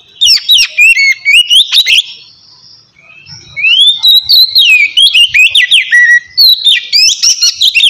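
Oriental magpie-robin singing loud, clear whistled phrases of quick sliding notes. The song comes in two runs with a short pause between them about two seconds in.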